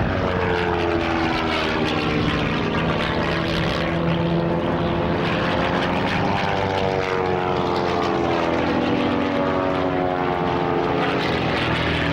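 Propeller engines of three aerobatic display aircraft flying a formation loop one after another. Their overlapping engine notes slide down in pitch as each plane passes.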